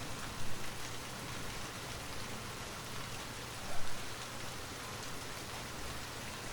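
Steady rain falling on a surface, a continuous rain-sound backdrop, with two brief louder spots about half a second and nearly four seconds in.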